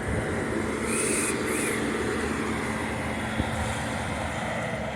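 A motor vehicle's engine running steadily with a constant low hum, and a short high hiss about a second in.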